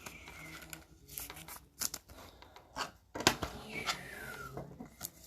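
Trading cards and plastic sleeves being handled: scattered clicks and rustles, with two short squeaky slides of plastic, one near the start and one just before four seconds in.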